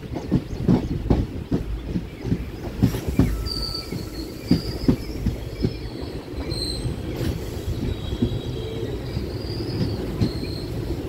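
Passenger train running on the rails: wheels clacking over rail joints with a low rumble, and a high wheel squeal coming in a few seconds in. The clacks thin out in the second half to a steadier rumble.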